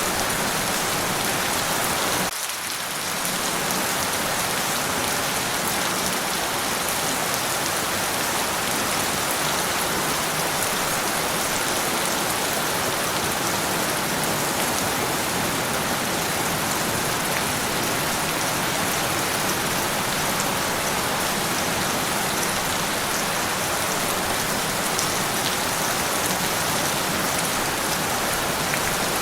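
Steady, dense rain falling on surfaces, a continuous hiss of drops with a brief dip in level about two seconds in.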